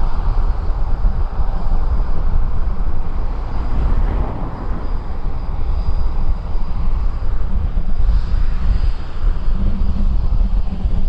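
Jet airliner engines giving a steady roar, loudest about four seconds in, with a faint high whine, while wind buffets the microphone with a flickering low rumble.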